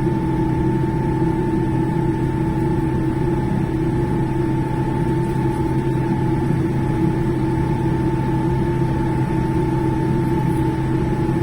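Steady cabin noise of a Boeing 787-10 on the ground: a low rumble with several constant tones, the airliner's engines and air systems running.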